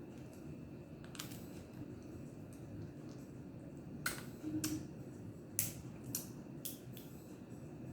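Crab shells being cracked and handled while eating: several sharp cracks and clicks, the loudest about four and five and a half seconds in, over a low steady background hum.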